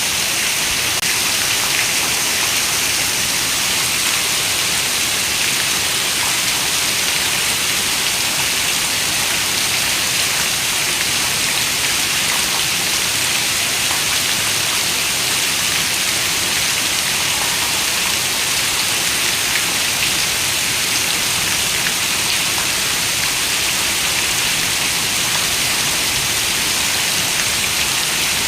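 Steady rain falling, the hiss of many drops with no pauses or thunder.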